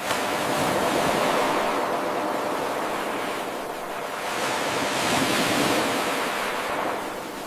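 Ocean surf washing in as a rushing hiss, swelling twice and ebbing near the end. It starts abruptly where the eight-second wave recording loops back on itself.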